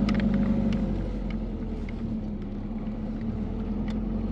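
Truck engine running steadily with a low hum, with scattered light clicks and rattles over it.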